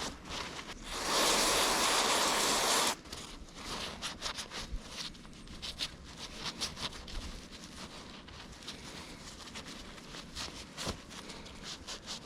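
A can of aerosol parts cleaner sprayed in one hissing burst of about two seconds that cuts off sharply, followed by light clicks and handling of metal brake parts.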